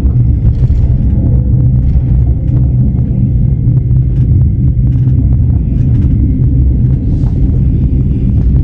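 Inside a Russian Railways reserved-seat passenger car rolling along the track: a loud, steady low rumble of the carriage, with faint, irregular clicks and rattles above it.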